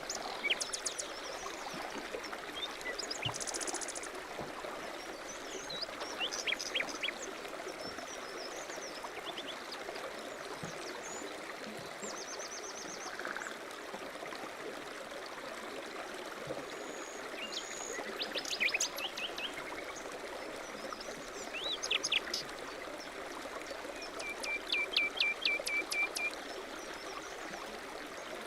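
A stream running steadily, with birds chirping and calling on and off over it, including a run of quick repeated notes near the end.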